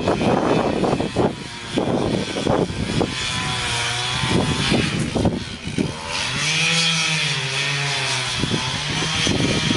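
Chainsaw running, its engine pitch rising and falling as it revs, with repeated surges of cutting noise during the first six seconds.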